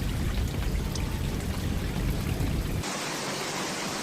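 Steady rushing noise of running floodwater and rain. About three seconds in it cuts abruptly to a brighter, hissier water noise with less rumble.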